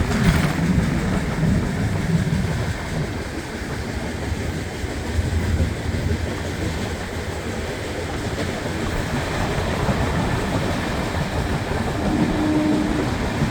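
Passenger train running along the track: a steady rumble with some rattle of the wheels on the rails.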